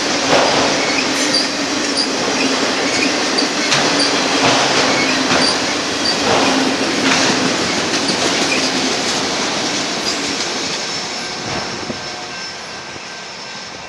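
Union Pacific auto rack freight cars rolling by on the downgrade: steady wheel-on-rail noise with a faint high wheel squeal. It fades away over the last few seconds.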